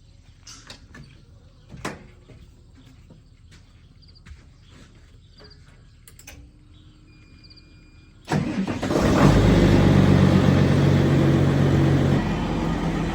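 A farm machine's engine starts about eight seconds in, then runs steadily and loudly, easing off slightly near the end. Before it starts there are a few faint clicks and knocks.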